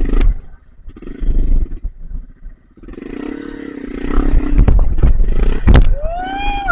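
Off-road trail motorcycle engine revving in several bursts, the longest a few seconds in. A sharp knock comes near the end.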